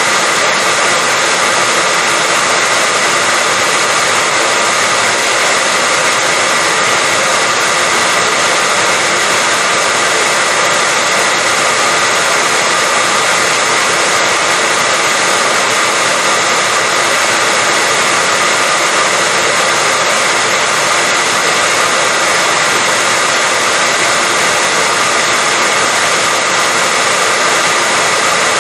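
Hair dryer blowing steadily, a constant loud whoosh of air with a faint motor whine and no change in speed.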